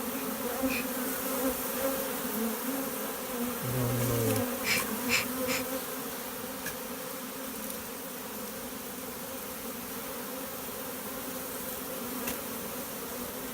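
Honeybee swarm humming steadily: the massed buzz of many bees in the air as the swarm moves into a hive box. A few faint clicks come about five seconds in.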